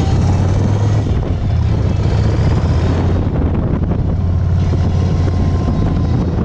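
Yamaha Roadliner's big air-cooled V-twin engine running steadily under way, with wind rushing over the microphone.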